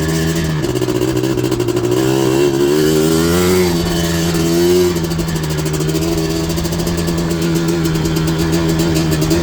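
Yamaha Blaster's 240cc big-bore single-cylinder two-stroke engine running under throttle through an FMF exhaust with Arc silencer. Its pitch wavers up and down for a few seconds in the first half, then holds steady.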